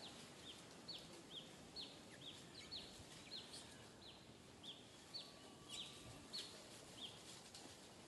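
A bird calling over and over: short, high notes that each fall in pitch, about two a second, faint against outdoor background hiss.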